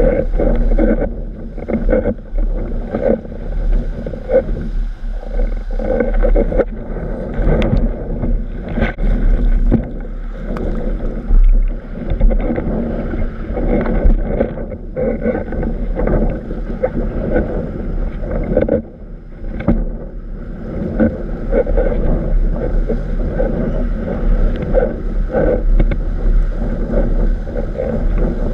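Wind buffeting the microphone in a strong breeze, with water rushing and slapping against a windsurf board as it sails, the slaps coming irregularly over a constant deep rumble.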